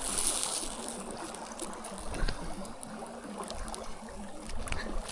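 Flowing river water, with a brief hiss at the start and a few light knocks.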